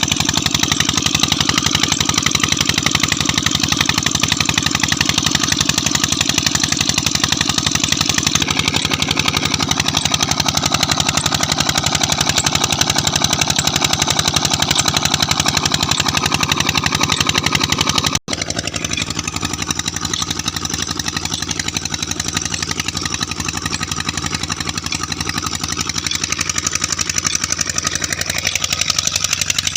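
Peter 20 HP diesel engine (model SD115) running steadily under a tube-well load, a fast, even beat of firing pulses. It breaks off for an instant about two-thirds of the way through, then carries on slightly quieter.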